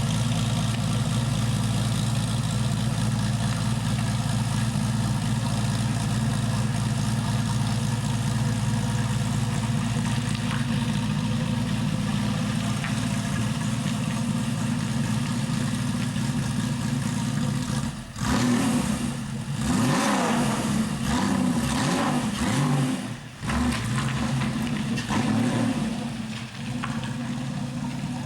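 Porsche 993 Supercup's air-cooled flat-six held at a steady fast idle while warming from a cold start, its throttle feathered. About eighteen seconds in it is revved up and down several times for a few seconds, then settles back to a steady idle.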